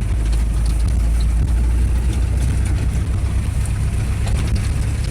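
GAZelle van driving on a rough field track, heard from inside the cab: a steady low engine and road rumble with light scattered rattles.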